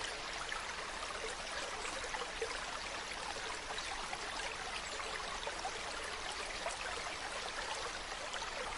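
Mountain stream water running over rocks: a steady, even rush of flowing water, full of small splashes and trickles.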